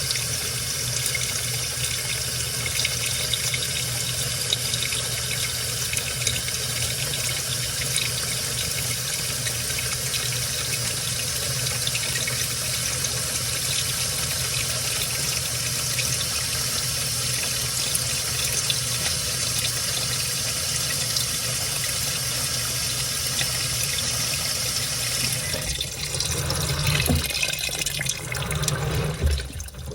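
Washing machine filling with water: a steady rush of water pouring into the tub. About 26 seconds in, the steady rush stops and gives way to uneven sloshing surges of water.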